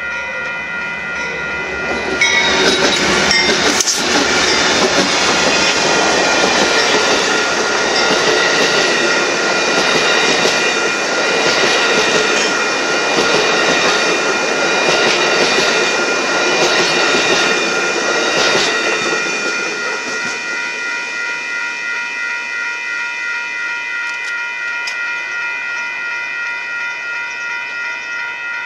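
Amtrak passenger train passing at speed, its wheels clattering over the rails. The sound swells about two seconds in and fades off after about 19 seconds, with a sharp click early in the pass. A set of steady high ringing tones continues underneath throughout.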